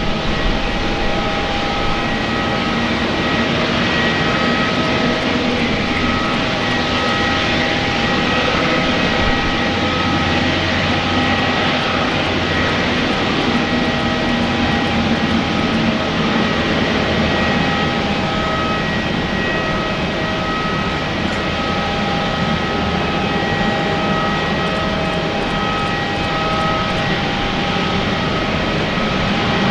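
Jet engines of an Airbus A350-900 airliner, Rolls-Royce Trent XWB turbofans, running steadily. There is a continuous rush of noise with a wavering whine of several steady tones.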